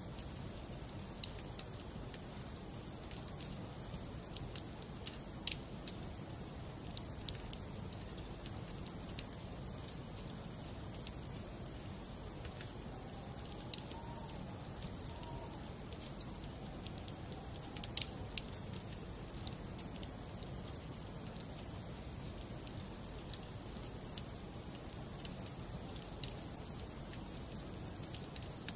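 Wood fire in a fireplace crackling, with a steady low rumble of flames and sharp pops of burning logs coming at irregular moments. A faint wavering whistle rises in the middle.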